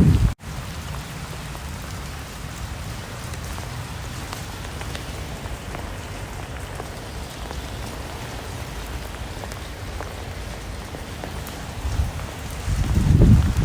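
Steady rain falling, an even hiss with scattered faint drop ticks. A brief cut-out about half a second in, and a loud low gusty rumble comes back near the end.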